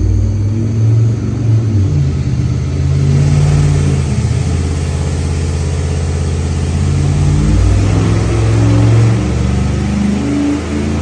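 Stock Chevy 305 small-block V8 running loud under load on a water-brake dynamometer during a power run, its engine note shifting as it revs, loudest a couple of seconds before the end and easing off near the end.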